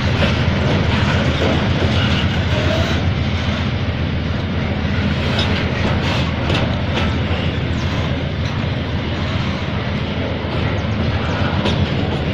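Freight flatcars loaded with steel coils rolling past, their steel wheels on the rails making a steady rumble with scattered sharp clicks, more of them around the middle.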